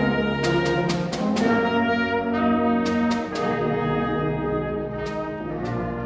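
Concert band playing an overture, the brass (trumpets, trombones, French horns) holding full sustained chords. A quick run of five sharp strikes comes about half a second in, with a few more single strikes later.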